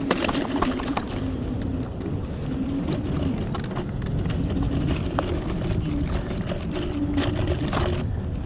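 TRBK-M2 electric hyperscooter riding over rough sandy ground: steady tyre and wind noise with many irregular rattling clicks and knocks from the scooter over the bumps, and a faint wavering motor whine.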